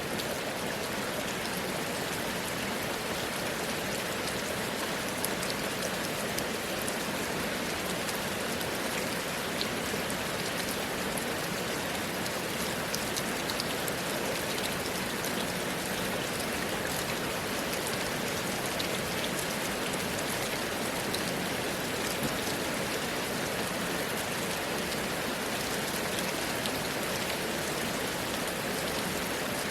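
Steady rainfall, with fine drop patter on surfaces close by.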